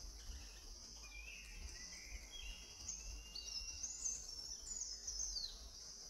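Wild bird song over a steady high insect drone: a series of whistled notes that slide in pitch, at first lower and then climbing higher in the second half.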